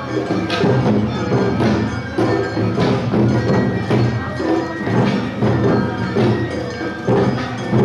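Awa Odori narimono band playing live: drums and the metal kane gong striking a steady two-beat festival rhythm, with ringing metallic tones over the beat.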